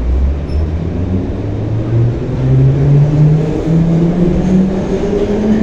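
A Moscow metro train of the 81-717/714 'Nomernoy' type pulling out of the station, its traction motors giving a whine that rises steadily in pitch as it accelerates.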